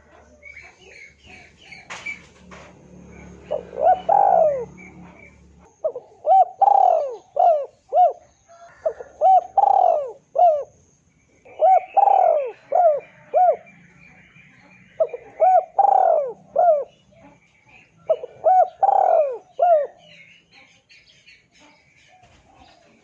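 Spotted dove (tekukur) cooing in repeated phrases of three or four notes, each note falling in pitch, a phrase about every three seconds. Faint chirps of small birds sound higher up.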